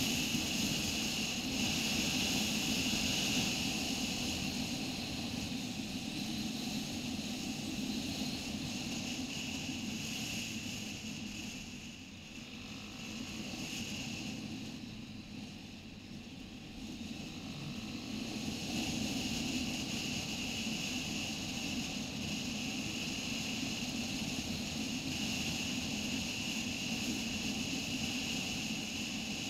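Motorcycle engine running steadily while riding, with road and wind noise; the sound dips twice briefly near the middle.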